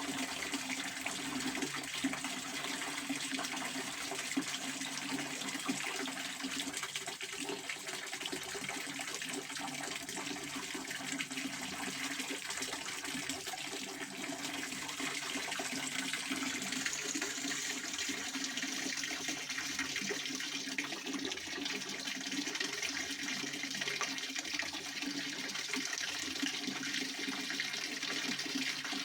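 Pond water fountain splashing steadily, a continuous rush of falling water.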